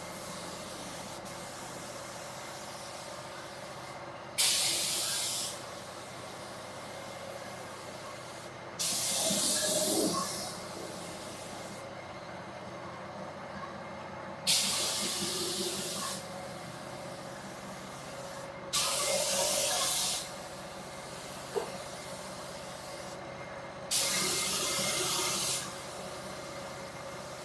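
Pneumatic spray gun hissing in five separate bursts of about a second each, with pauses between them, as primer is sprayed onto the car body.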